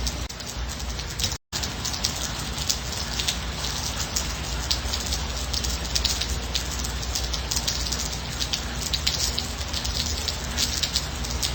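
Steady rain, with a dense patter of individual drops over a soft low rumble. The sound cuts out completely for a split second about a second and a half in.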